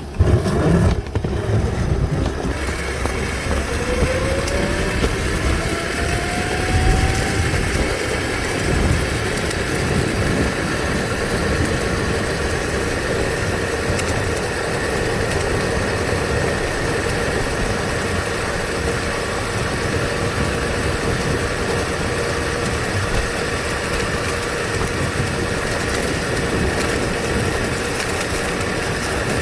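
Upgraded 36-volt, 1000-watt Razor MX350 electric minibike being ridden along a trail. Its motor whine rises a few seconds in, then holds steady over a continuous rushing noise.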